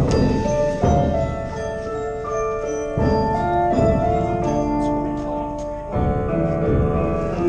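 Percussion ensemble playing: mallet keyboards hold ringing chords and melody notes, punctuated by heavy drum hits at the start, about a second in, around three seconds and near six seconds.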